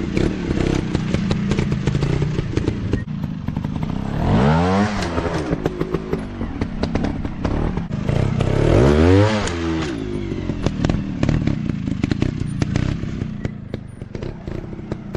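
Dirt bike engine running, revving up and back down twice, with many small clicks and clatters over it.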